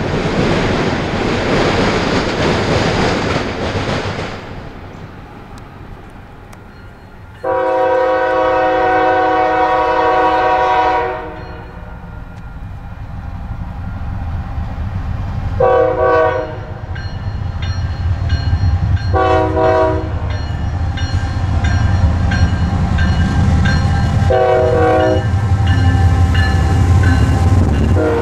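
A double-stack intermodal freight train rolling past close by, a steady rush of wheel noise that fades after about four seconds. Then a diesel locomotive horn sounds one long blast of about three and a half seconds, followed by three short blasts spaced a few seconds apart, and a fourth begins at the very end. Under the later blasts the low rumble of Union Pacific diesel locomotives builds as they approach and pass close by.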